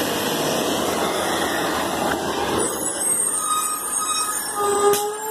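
Garbage truck running with a steady rumble; from about halfway through, high-pitched squeals join in, ending in a longer held squeal.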